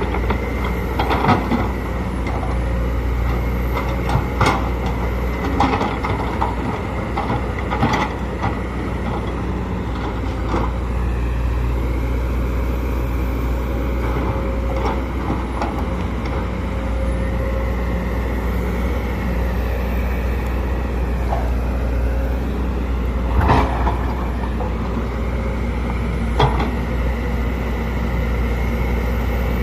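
Sumitomo SH210LC crawler excavator running: a steady diesel drone with a hydraulic whine that shifts in pitch now and then. Sharp clanks and knocks come several times in the first part and once more loudly late on.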